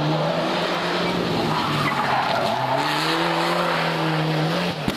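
Rally car engine at high revs as the car slides through a corner, with tyres skidding on the road. The engine note holds, drops about halfway through, then climbs again as the driver gets back on the throttle.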